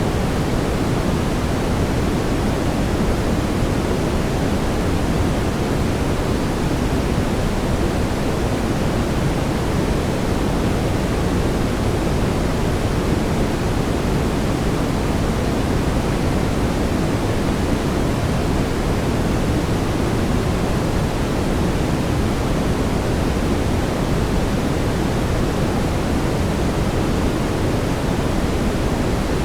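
Steady brown noise: a continuous deep rushing hiss, heaviest in the low end, with no change or events.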